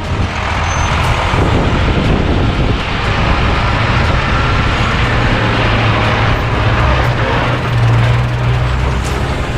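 A 1983 Mercedes-Benz Unimog U1700L army truck driving, its diesel engine running with a steady low drone under heavy road and wind noise. The engine note grows stronger about halfway through.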